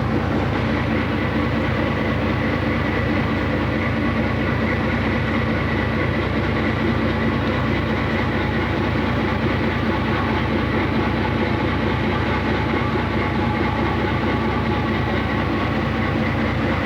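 Steady drone of a passenger motor ship's engine, heard on board, with a constant hum and no change in speed.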